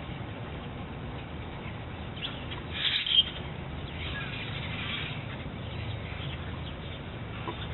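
Birds calling and chirping, with one loud, sharp call about three seconds in and a busier run of calls a second later, over a steady low background rumble.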